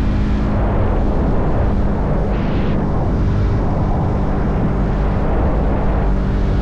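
Motorcycle engine running at a steady cruise under heavy wind rush on the microphone.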